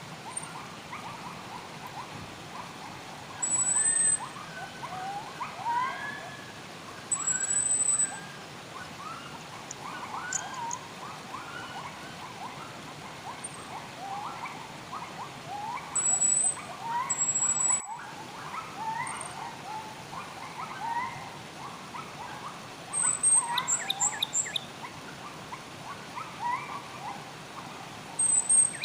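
Many wild birds chirping and calling at once, with repeated high, thin whistles about half a second long standing out as the loudest sounds and a quick trill of short notes twice near the end. Steady flowing water runs underneath.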